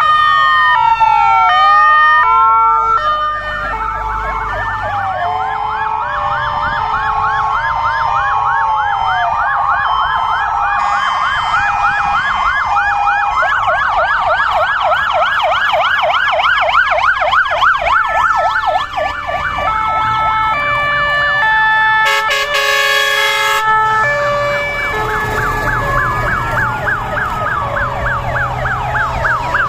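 Several fire engine sirens sounding at once as a convoy passes: slow rising and falling wails and stepped two-tone calls overlap, with a fast yelp in the middle. A short horn blast cuts through about 22 seconds in.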